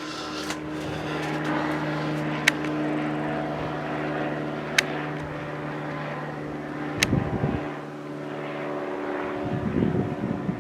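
Propeller airplane flying over, a steady engine drone. Three sharp clicks come about 2.5, 5 and 7 seconds in, and there are brief low rumbles about 7 seconds in and near the end.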